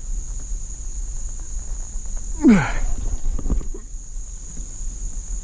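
Steady high-pitched drone of insects such as crickets, over a low rumble. About two and a half seconds in, a short falling cry is the loudest sound.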